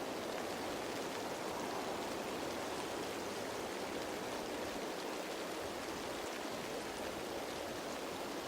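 Steady rain falling on leaves, an even patter of drops.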